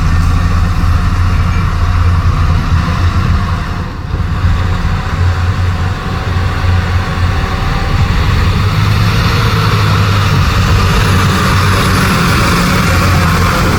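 Heavy dump truck's diesel engine running steadily at low revs, with a brief dip in level about four seconds in.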